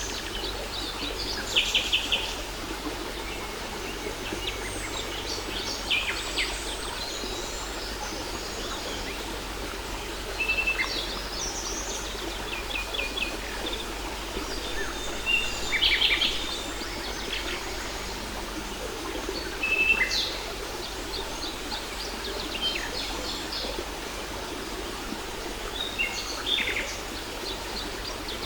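Birds chirping and trilling in short high bursts every few seconds over the steady rush of a waterfall.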